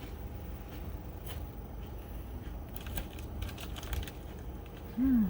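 Swedish torch log fire crackling, with irregular sharp pops and snaps over a low steady rumble of the flames.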